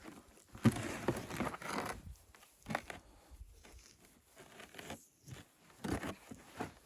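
Irregular rustling and crinkling, with a sharp handling noise about half a second in and another burst near the end, as of fabric or gear being handled.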